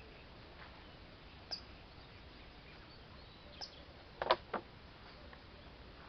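Short, high bird chirps a couple of seconds apart over a faint steady background hiss. A quick run of three sharp clicks a little past four seconds in is the loudest sound.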